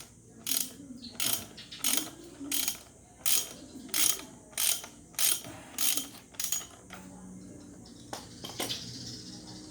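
Ratchet wrench worked back and forth in about ten even strokes, loosening a fastener on a motorcycle front fork, followed by two fainter clicks near the end.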